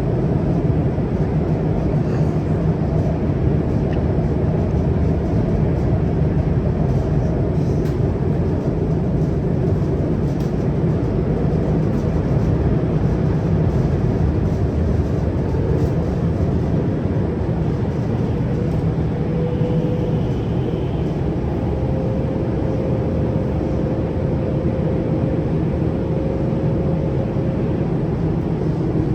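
Running noise inside a CRRC Qingdao Sifang Type A metro car travelling at speed between stations: a steady, loud rumble of wheels on rail. A faint whine joins it about two-thirds of the way through.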